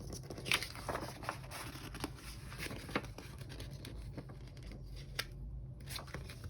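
Soft rustles and a few light taps and clicks of paper and stickers being handled on planner pages.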